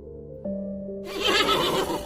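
A horse whinnying once, starting about a second in, over background music of held synth-like notes.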